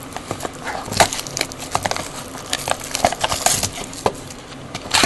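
Cardboard trading-card box and its packaging being handled and opened by hand: irregular crinkles, taps and scrapes.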